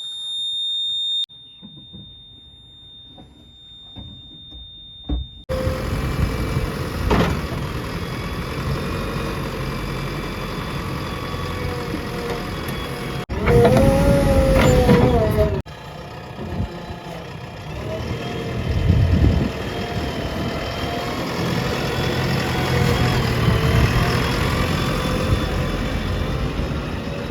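A steady high electronic beep, then after a sudden cut a heavy diesel machine running steadily: a JCB 3DX backhoe loader working at the tractors. In the middle a louder stretch of about two seconds has a pitched note that rises and falls, like an engine revving under load.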